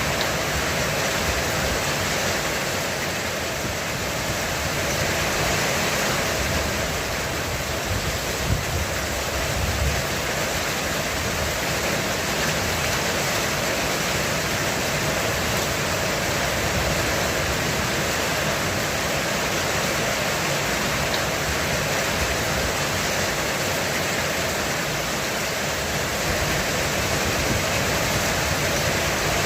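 Heavy rain falling steadily on a roof, an even hiss, with a brief low rumble about eight seconds in.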